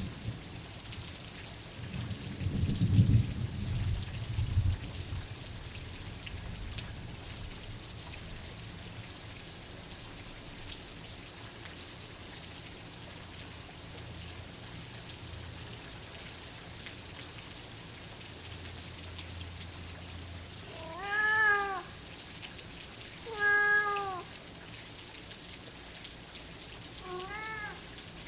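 Steady rain, with a low rumble of thunder a few seconds in. A cat meows three times near the end, the last meow fainter.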